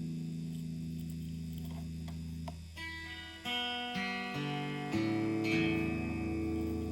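Guitar: a held chord ringing out and slowly fading, then single notes picked one after another from about three seconds in, each left to ring.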